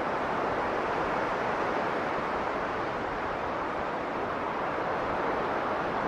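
Strong blizzard wind blowing steadily, a dense even rush of noise with no gusts or breaks.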